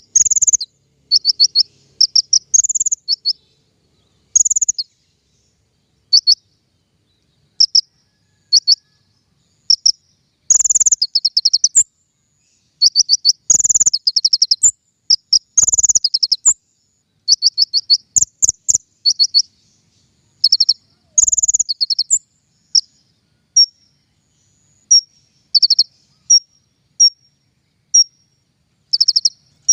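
Song of the small songbird known in Indonesian bird-keeping as king konin, played as a lure and model song for caged birds: short, high, rapid trills of repeated notes, each about a second long, coming in bursts with pauses between.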